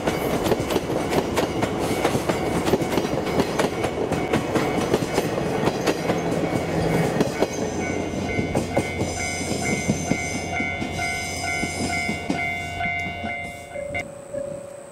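A train passing on jointed track, its wheels clicking rapidly over the rail joints, the clicks thinning out near the end. Steady tones join about halfway through and cut off near the end.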